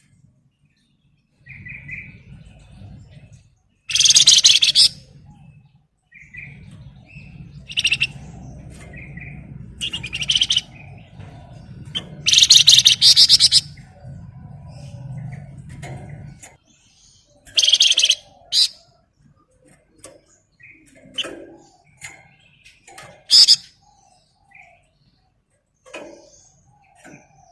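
Flamboyan (Wergan Jawa) songbird singing in loud, dense bursts of rapid high-pitched chirping notes, separated by short pauses, with a low hum underneath during the first half.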